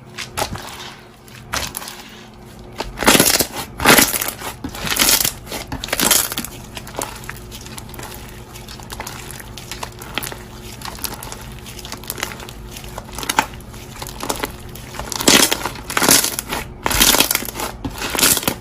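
Bead-filled slime being squeezed and pressed by hand, giving irregular crunchy crackles and pops that come in louder clusters.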